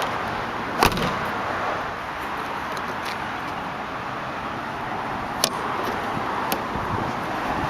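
Steady outdoor background noise with one sharp thump about a second in and two lighter clicks later.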